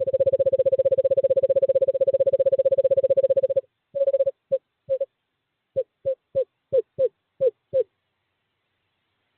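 Male screech owl giving a long, steady monotone trill that breaks off about three and a half seconds in, followed by a broken string of about ten short notes, each falling slightly: a courtship call to a female at the nest box.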